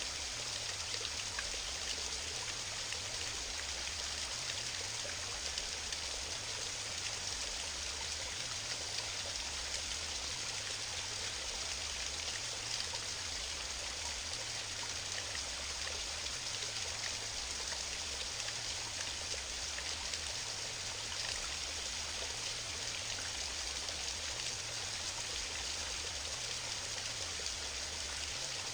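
Waterfall on a mountain stream: water falling and rushing steadily with a bright hiss, unchanging throughout.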